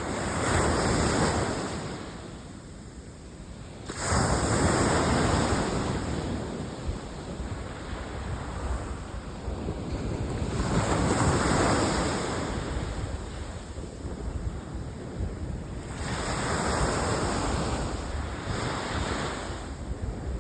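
Sea waves breaking and washing in, the surf swelling and fading every five or six seconds, with wind rumbling on the microphone.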